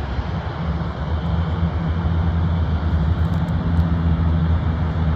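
A steady low engine hum over a constant wash of noise, growing a little louder about half a second in.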